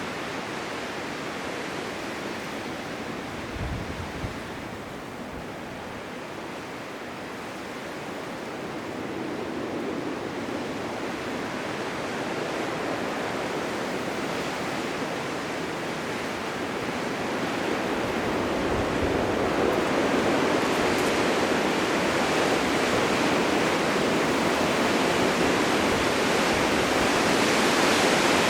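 Blizzard wind blowing steadily as an even noise without tones, growing louder about two-thirds of the way through.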